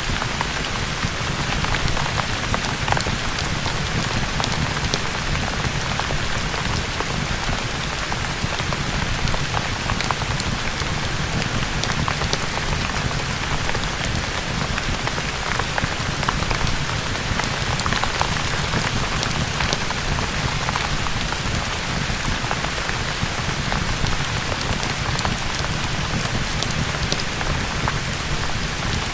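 Steady rain falling on a surface: an even hiss with many small scattered ticks and a low rumble underneath.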